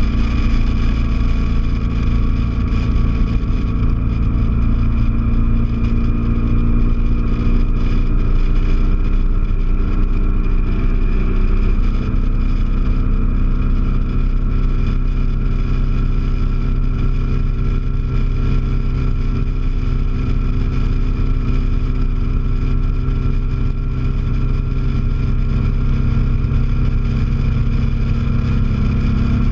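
BMW R1200GS Adventure's boxer-twin engine running at a steady highway cruise, heard over wind and road noise on the moving bike. The engine note holds steady, shifting slightly about twelve seconds in.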